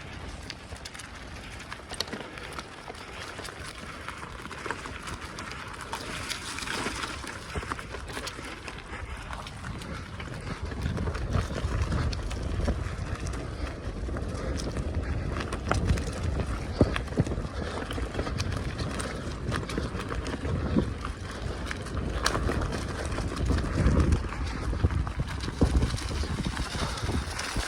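Bicycle being ridden over a rough forest track: tyre noise with many small clicks and rattles. A low rumble grows louder from about ten seconds in.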